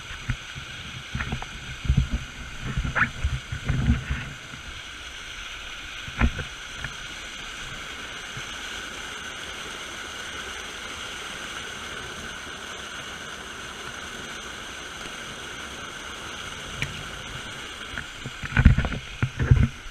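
Steady hiss of rushing water from a creek waterfall. Low rumbling bumps on the microphone come in the first few seconds, once a little later, and again near the end.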